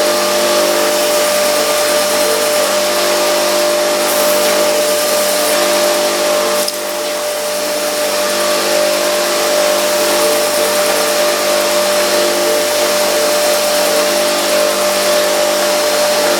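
Electric grinder running steadily: a strong, steady whine with a hiss over it. The sound dips briefly about seven seconds in, then picks up again.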